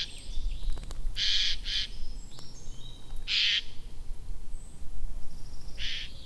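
A bird gives short, harsh, hissing screeches, about five of them spread across a few seconds, with faint chirps and a low rumble behind.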